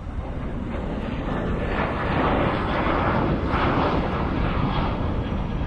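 Jet airliner engines at takeoff power, a broad rushing roar that swells about a second in, is loudest in the middle and eases a little near the end, over a steady low rumble.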